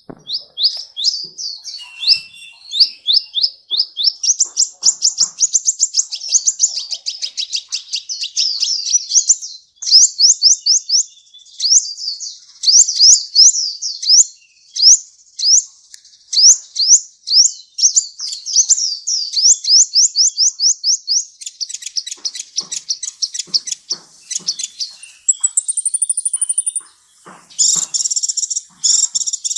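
Sunbird song: a fast, unbroken run of sharp, high sweeping chirps, several a second. Near the end comes a brief high thin trill, then a burst of rapid buzzy notes.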